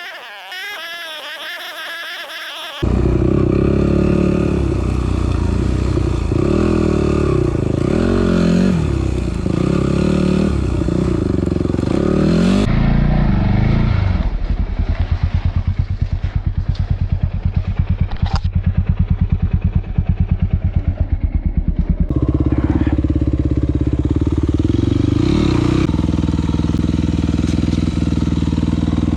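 Yamaha WR250F's single-cylinder four-stroke engine, loud from about three seconds in and revving up and down under load. About halfway through it drops to a lumpy, pulsing idle for several seconds, then runs steadily at higher revs to the end.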